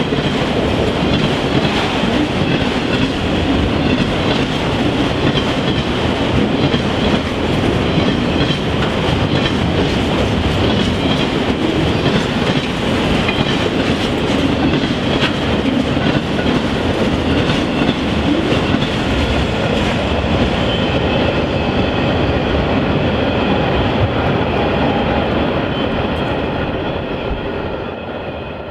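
Long freight train of autorack cars passing at speed, its wheels running steadily on the rails, fading away near the end as the last car goes by.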